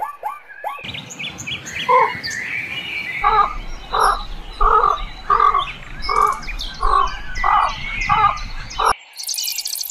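Birds calling: one gives a call repeated about one and a half times a second, with higher chirps over it. The clip cuts off about nine seconds in and a steady hiss follows.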